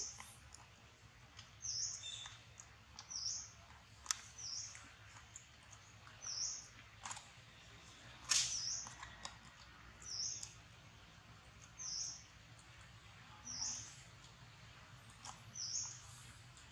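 A small bird chirping over and over, one short high chirp about every one and a half to two seconds, with a few short crackles, the loudest about eight seconds in.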